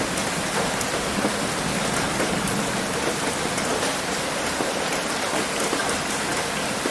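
Heavy rain pattering steadily on a roof, a dense even hiss with scattered individual drop ticks.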